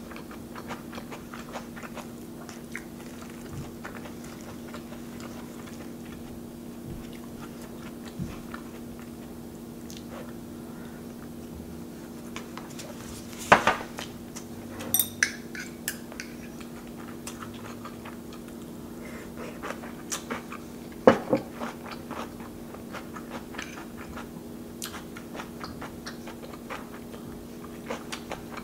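Close-miked chewing of spoonfuls of rice, with a few sharper clicks and scrapes of a metal spoon in a paper cup, the loudest about halfway through and again some seven seconds later.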